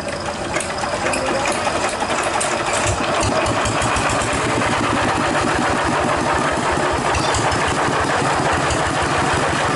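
Engine of a dilapidated hand tractor running with a fast, even chugging. It gets louder about three seconds in, then holds steady.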